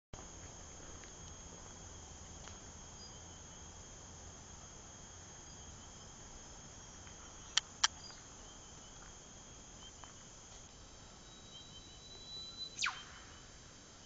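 Eastern whipbird call: a thin, steady whistle held for about two seconds, ending near the end in a sharp whip-crack that sweeps steeply down in pitch. Two quick, sharp cracks come about halfway through, over a steady high insect chorus.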